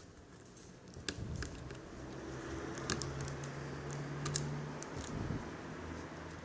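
Scattered light clicks and taps of small plastic netbook parts being handled, with a low steady hum for about three seconds in the middle.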